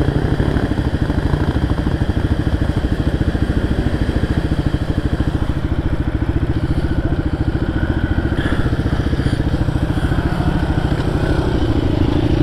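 Motorcycle engine running at low revs with a steady, rapid pulse as the bike crosses a rocky stream.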